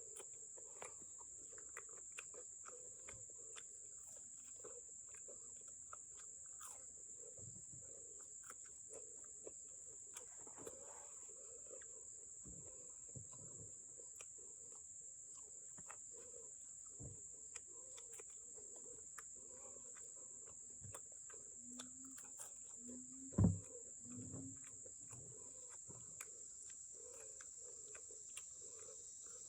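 Steady high chirring of insects in the background, with soft chewing and small mouth clicks of someone eating, and one louder thump a little over two-thirds of the way through.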